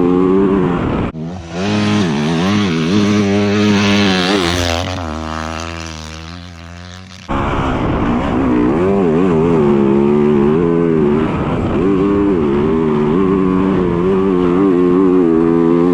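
Motorcycle engine running, its revs rising and falling. About a second in, the sound cuts abruptly to a brighter engine run whose pitch falls as it fades over several seconds. About seven seconds in it cuts back to the engine rising and falling in revs.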